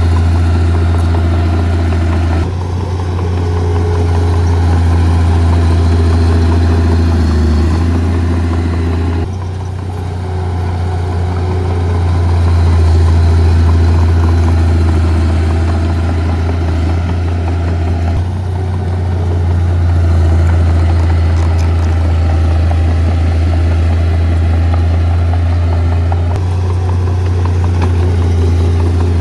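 Heavy earth-moving machinery's diesel engine running steadily with a deep drone. The sound shifts abruptly several times.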